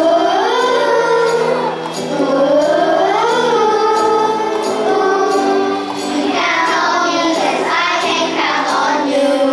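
Children singing a song together to music, with held and gliding notes.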